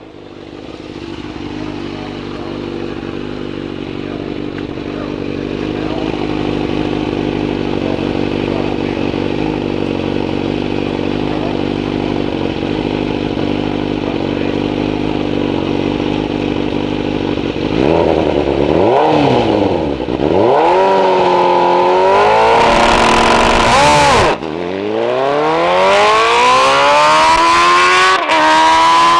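A drag-racing vehicle's engine idling and growing louder, then revved up and down in short swings about 18 seconds in as it stages, and launched near the end, its pitch rising steadily as it accelerates hard down the strip.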